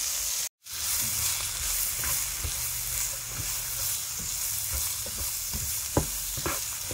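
Chopped onion and grated carrot sizzling in hot oil in a frying pan, stirred with a spatula that scrapes and taps against the pan. The sound cuts out for a moment about half a second in.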